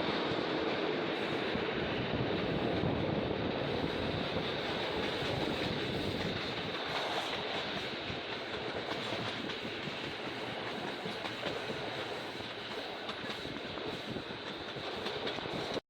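Passenger train running on the track, a steady rumble that eases a little about halfway through and then cuts off abruptly.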